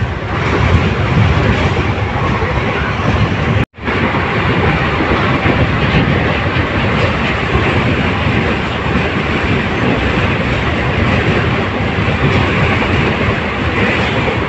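Express passenger train running at speed, heard from inside a coach by an open window: steady noise of wheels on rails mixed with rushing air. The sound cuts out for an instant about four seconds in, then carries on as before.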